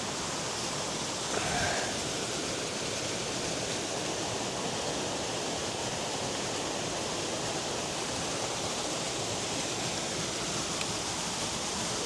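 Fast-flowing river water and waterfall rushing, a steady even roar of turbulent water.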